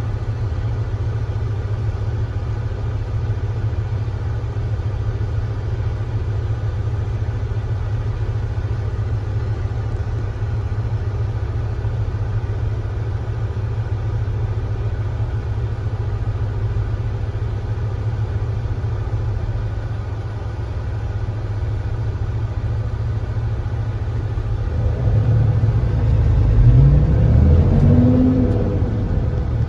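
Kia Granbird Sunshine coach's engine running with a steady low rumble. About 25 seconds in the bus pulls away: the engine note rises in pitch and gets louder.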